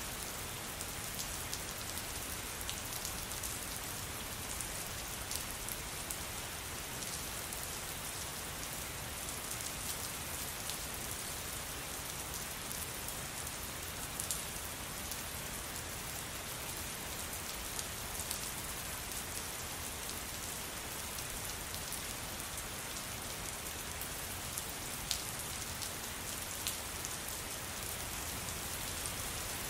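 Steady rain falling on a surface, an even hiss with scattered sharp drop ticks, a few louder ones standing out.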